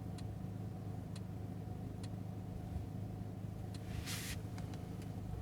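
Steady low hum of the Mercedes-AMG E53's 3.0-litre turbocharged inline-six idling, heard from inside the cabin. A few faint clicks come about a second apart, and there is a short hiss about four seconds in.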